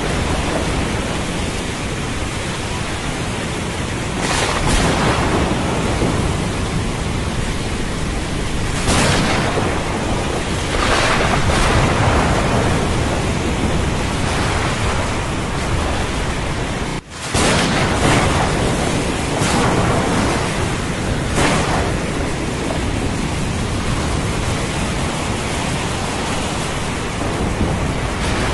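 Thunderstorm with steady heavy rain and a continuous low rumble of thunder, swelling louder several times. The sound drops out for a split second about 17 seconds in.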